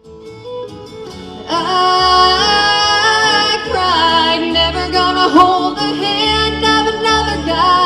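Music: a woman singing a country ballad over guitar accompaniment with a steady bass. The voice comes in about a second and a half in, after a soft instrumental start.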